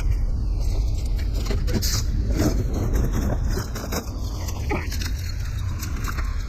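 Steady low rumble of a moving vehicle, with loose items clicking and rattling now and then.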